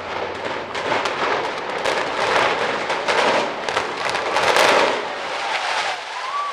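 Tower block demolition: a dense run of sharp cracks and crackling that builds to its loudest about four and a half seconds in, then dies down.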